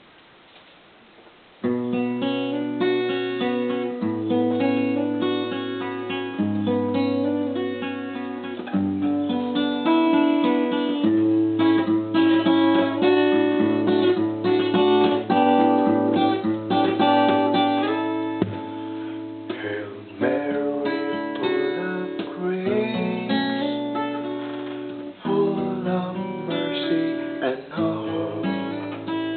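Instrumental music led by a picked acoustic guitar, with held bass notes changing every few seconds. It starts suddenly about two seconds in, after faint hiss.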